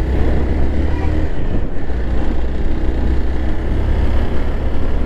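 A motorcycle running steadily while being ridden, with wind rushing over the microphone as a heavy low rumble.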